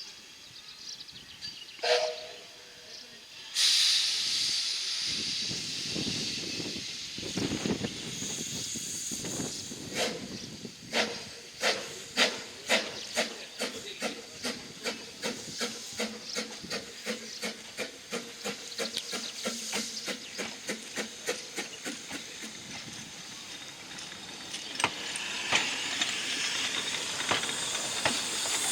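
Double Fairlie steam locomotive "David Lloyd George" starting its train. A short whistle toot is followed by a sudden burst of steam hiss. Then the exhaust beats start slow and steadily quicken as the train gathers speed.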